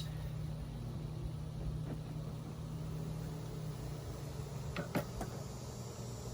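Steady low hum of honeybees from an opened Layens long hive, with a short knock and click about five seconds in as the hive parts are handled.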